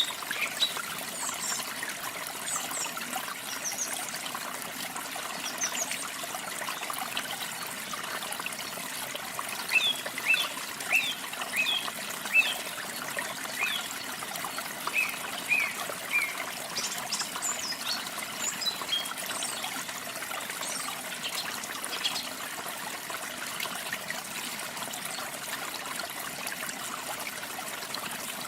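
Steady trickling, splashing water of a small waterfall, with songbirds chirping over it in scattered short calls. The chirps come thickest in the middle stretch.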